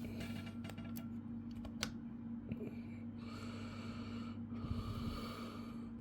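Small screws being driven into a laptop's bottom cover: a few light clicks, then a steady whirring in two stretches of about a second each, over a constant low hum.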